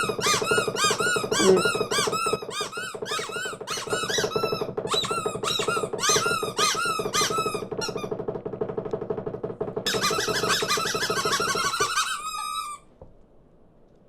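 Small cartoon birds chirping, a rapid string of squeaky calls about three a second over a steady low hum. The calls pause briefly around eight seconds in, start again, and cut off suddenly near the end.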